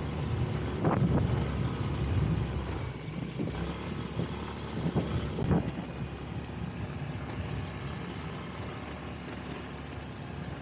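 Vehicle engine running steadily on the move, with road rumble and some wind on the microphone, and a few sharp knocks in the first half.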